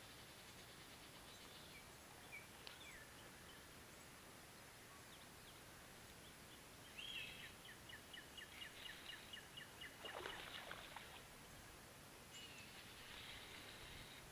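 Near silence outdoors. About seven seconds in, a small bird sings a short trill of quick, evenly repeated high notes, followed by a brief rustle.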